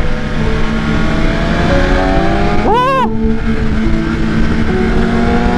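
BMW S1000RR inline-four sport bike engine, through an aftermarket Leovince exhaust, revving and accelerating with its pitch climbing. About halfway through it gives one sharp, loud rev that rises and drops quickly.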